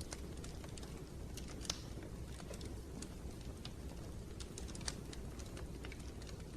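Fire crackling in a fireplace: irregular small pops and snaps over a low steady rumble, with a sharper pop a little under two seconds in and another about five seconds in.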